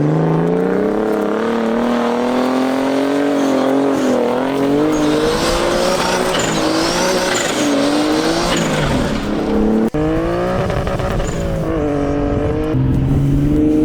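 Big-turbo RB20DET turbocharged inline-six in a Nissan 240SX revving hard under load on a dirt road. Its pitch climbs, falls back and climbs again several times, with a sudden brief break about ten seconds in.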